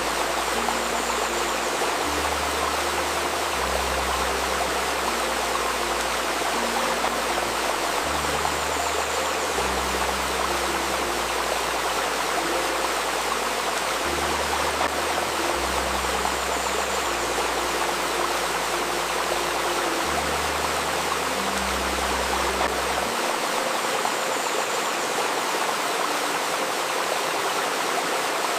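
Steady rushing of a flowing stream, with soft, slow, low synthesized notes changing every second or two beneath it; the deepest bass notes drop out about 23 seconds in.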